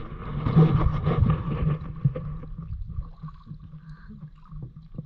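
Kayak being paddled on a river: water sloshing and splashing around the paddle and hull, with a low rumble on the microphone and a few knocks. It is loudest over the first two seconds.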